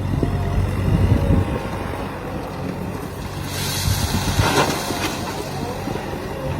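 Heavy diesel engine running steadily, with a rushing hiss for about a second and a half midway.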